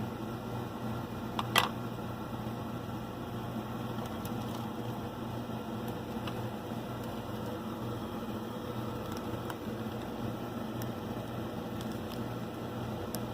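A steady machine hum with hiss, broken by one sharp click about a second and a half in and a few faint ticks.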